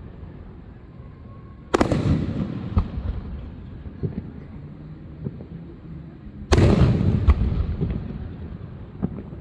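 Fireworks going off: two loud shell bursts, one about two seconds in and one about six and a half seconds in. Each bang is followed by a couple of seconds of crackling and rumbling, with scattered smaller pops between them.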